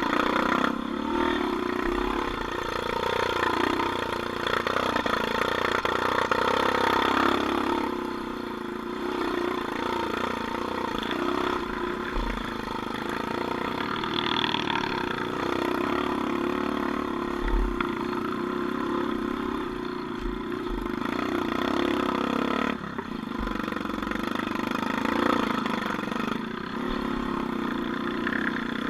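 Off-road vehicle engine running steadily and continuously, its pitch shifting a little as it works.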